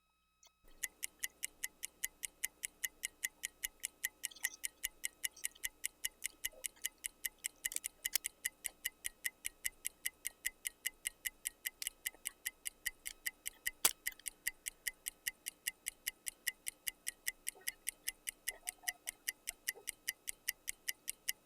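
Clock ticking steadily and quickly, about four ticks a second, starting abruptly about half a second in.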